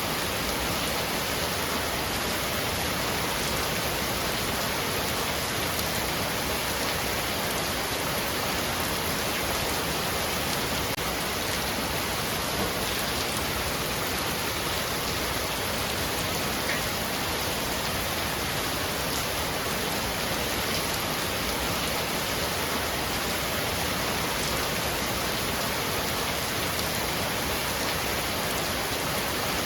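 Heavy rain falling steadily on a roof, a dense, even patter with no breaks or thunder.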